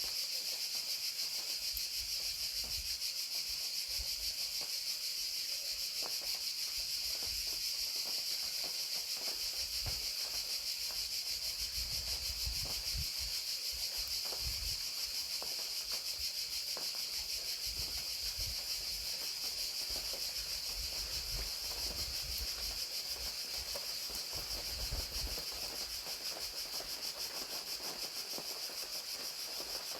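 Crickets trilling in a steady, dense chorus, with a continuous hiss of rain beneath. Faint low rumbles come and go.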